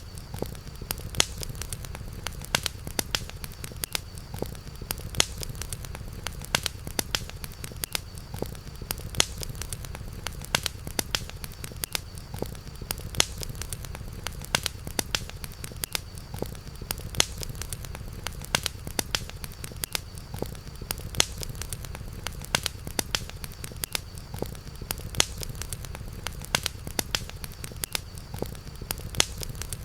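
Campfire burning with frequent irregular crackles and sharp pops, over a steady low rumble and a faint, steady high-pitched tone.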